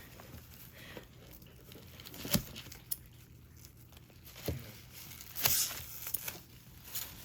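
Paper or plastic packaging being handled, rustling and crinkling in short bursts with a few clicks, loudest about two and a half seconds in and again about five and a half seconds in.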